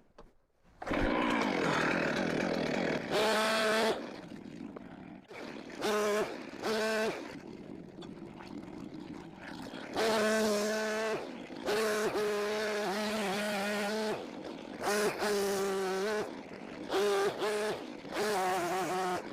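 Gas chainsaw running, revving up to full throttle in about nine short bursts and dropping back between them as it cuts slab wood into firewood lengths.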